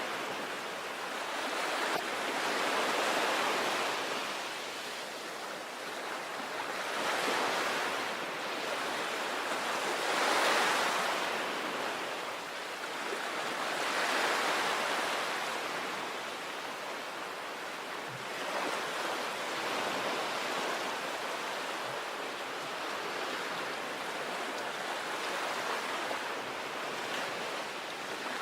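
Sea waves breaking and washing on the shore, the surf swelling and easing every few seconds, then settling into a steadier wash.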